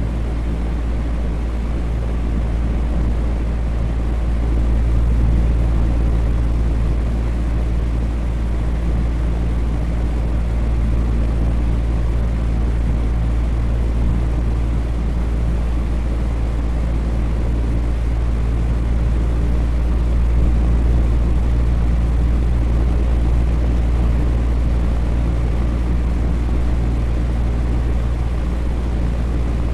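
Electric fan running steadily: a constant low motor hum under an even rush of moving air, swelling slightly a few seconds in and again past the middle.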